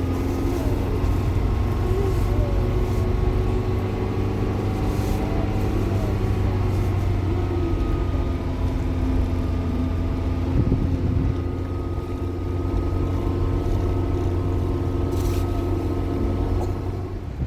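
A motor vehicle's engine running steadily at a constant pitch.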